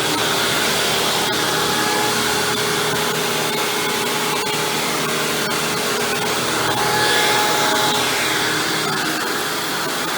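Hoover WindTunnel Supreme upright vacuum cleaner running steadily with its chevron brush roll spinning as it cleans, with a few brief ticks.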